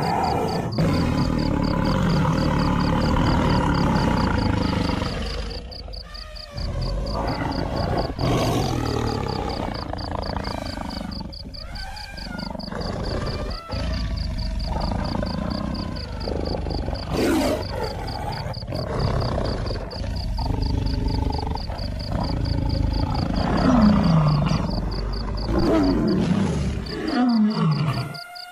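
Lions growling and roaring: a string of separate rough growling bouts with short breaks between them, and a few falling calls near the end.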